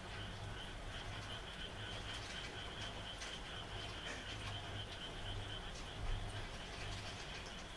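A chorus of frogs calling in the rain: a high, steady, pulsing trill over low repeated croaks, with scattered raindrop patter. One louder drop or thump comes about six seconds in.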